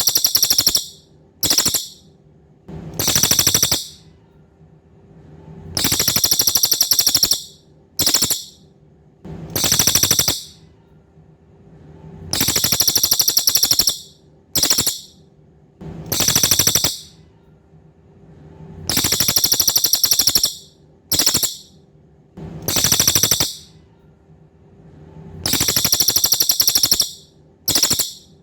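Cililin bird singing loud, high-pitched, rapid buzzy trills in a repeating pattern of a long trill, a short one, then another long one, about every six and a half seconds. A faint steady hum runs underneath.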